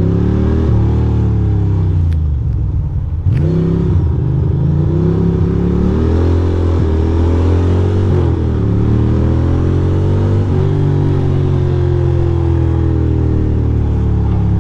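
Ducati Monster 620's air-cooled L-twin engine running at low speed in traffic, its revs rising and falling in short throttle pulls. The revs drop sharply and climb again about three and a half seconds in, and two sharp clicks come shortly before.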